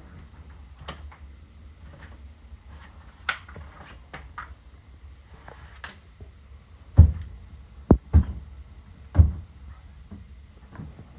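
Light clicks and knocks, then a few heavy thumps about seven to nine seconds in: household handling sounds like doors or cupboards being moved.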